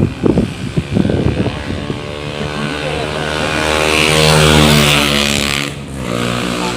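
A motor vehicle engine running past, growing louder to a peak and then fading away near the end, with a few sharp knocks in the first second or so.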